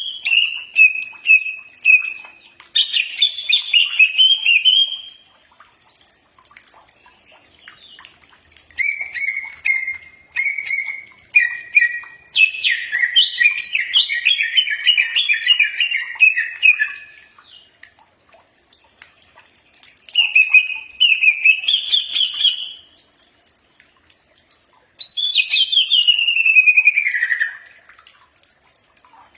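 Green leafbird (cucak ijo) singing: six loud warbled song phrases of quick chirping notes with short pauses between them, the longest about five seconds. The last phrase slides steadily downward in pitch.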